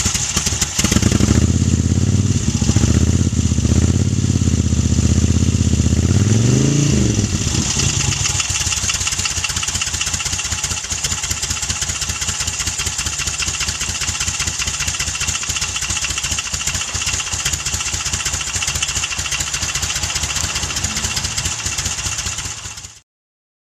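1990 Moto Guzzi California III V1000's air-cooled V-twin running after a cold start. It gives one short rev about six seconds in, then settles to a steadier, quieter idle. The sound cuts off suddenly near the end.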